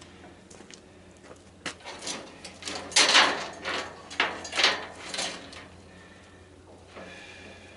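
Several short sliding scrapes and a few clicks from scrap wiring and parts being handled during the teardown of a tanning bed. The loudest scrape comes about three seconds in, with two more around four and a half and five seconds.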